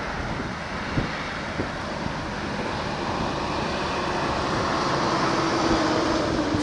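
A vehicle going by, its rushing noise and low drone slowly growing louder as it approaches. Gusts of wind thump on the microphone a couple of times in the first seconds.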